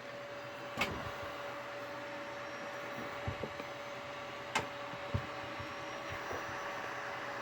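Pentium 4 desktop computer running: a steady fan hiss with a faint constant whine, broken by a few sharp clicks and knocks.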